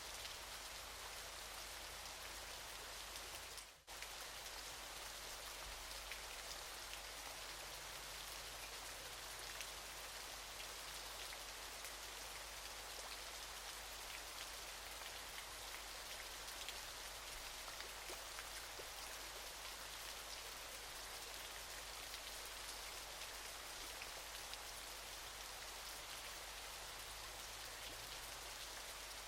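Waterfall: an even, steady rush of falling water, with a brief dip in level about four seconds in.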